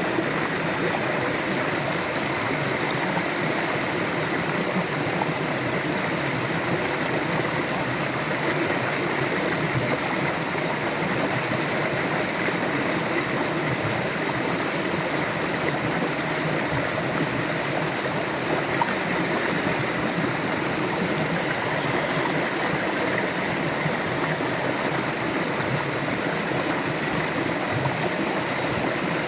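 River water flowing steadily over stones, an even rushing and gurgling.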